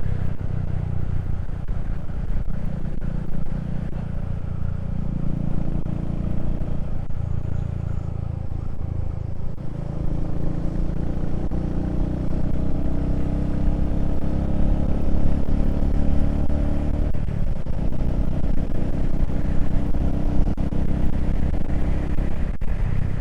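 Motorcycle engine running while riding along, a steady rumble whose note steps down and picks up again a few times, about 5, 10 and 17 seconds in.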